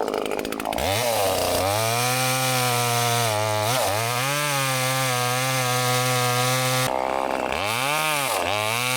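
Chainsaw ticking over at idle, then revved up about a second in and run at high speed, its pitch sagging and recovering about three times as it bogs down in a cut.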